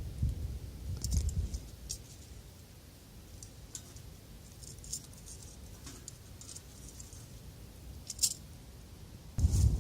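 Scattered light clicks and rattles of small objects being handled, likely solid fuel and charcoal being set out in the fire pit. A much louder rustling noise starts just before the end.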